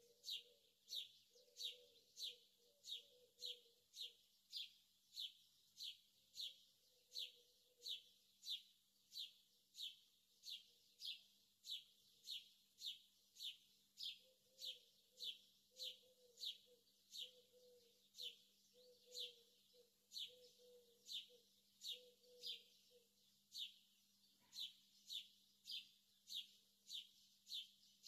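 A bird chirping over and over at a very even pace, about two short, high chirps a second, faint. A fainter low warbling comes and goes beneath it.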